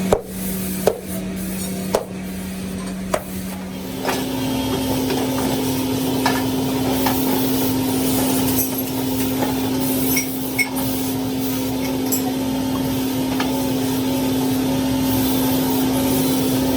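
A workshop machine's steady hum with sharp knocks about once a second; about four seconds in, the hum steps up to a higher pitch and runs on with occasional clicks.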